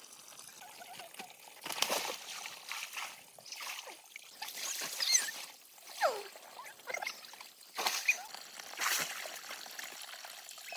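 Water pouring and splashing in irregular bursts, with a few short gliding calls between them.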